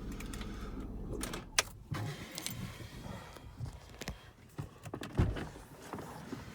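A 2002 Kia Sedona's engine runs with a steady low hum that stops about a second in. It is followed by a series of sharp clicks and knocks from handling, the loudest two near the middle and near the end.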